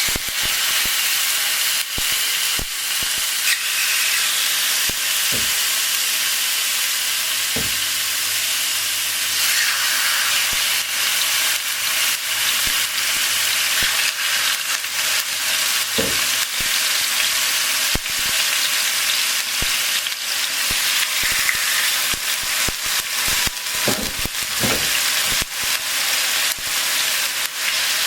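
Food frying in hot oil: a steady loud sizzle with frequent sharp crackles and pops.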